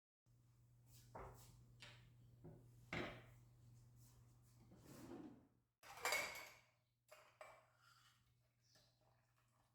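Quiet kitchen handling sounds: a string of light knocks, clinks and scrapes of dishes and utensils, the loudest about six seconds in, over a faint steady hum.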